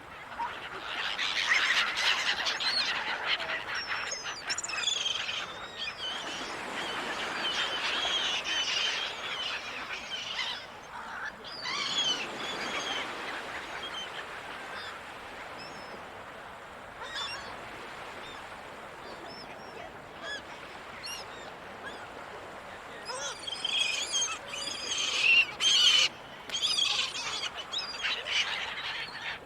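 A flock of gulls calling, many cries overlapping, over a steady wash of surf. The calling is busiest in the first ten seconds and swells again near the end.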